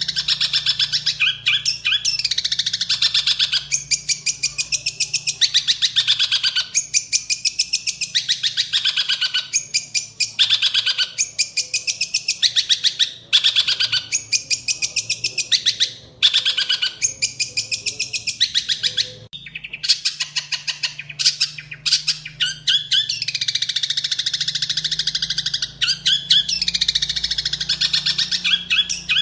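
Long-tailed shrike (cendet) singing fast and loud: dense runs of rapid, sharp, high chattering notes with only brief pauses, its song filled with mimicked sparrow calls.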